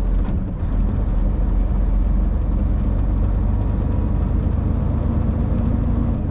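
Cab noise of a 2000 Freightliner FLD 112 semi truck on the move: the diesel engine and road noise make a steady low drone.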